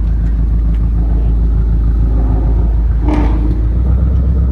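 Car engine running with a loud, deep rumble, with a brief louder burst about three seconds in.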